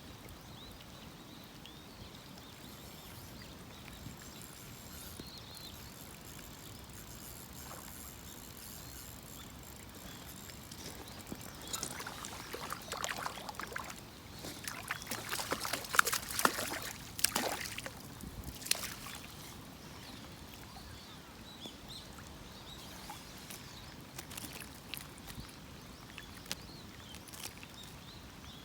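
Faint steady hiss with a burst of irregular splashing and clattering lasting several seconds in the middle, loudest about halfway through.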